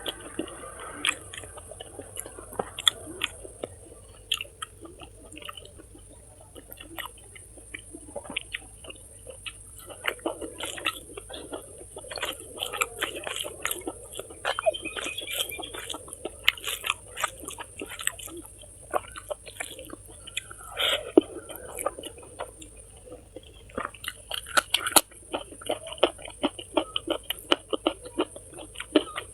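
A person eating close to the microphone: steady chewing with many irregular crunchy bites, over a faint steady high hiss.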